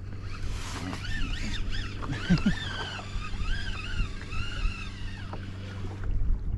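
Fishing reel giving line to a hooked tope, its drag whining in a wavering tone that rises and falls in pitch as the fish surges and shakes its head. The whine dies away about five seconds in.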